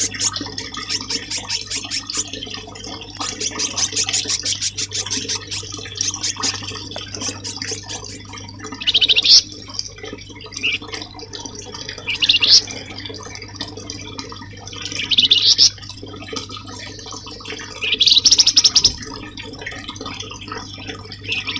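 Songbird recording over running water: rapid high trilling, then four loud, rising high-pitched calls about three seconds apart.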